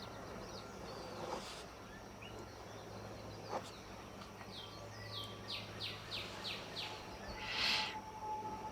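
A small songbird singing, with scattered short chirps and then a run of about six quick falling notes, about three a second, over a low steady hum. Near the end there is a short, louder scratchy rustle.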